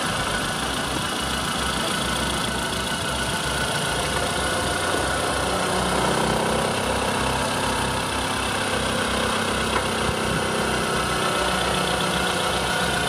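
Renault K7M 710 1.6-litre eight-valve inline four-cylinder petrol engine idling steadily.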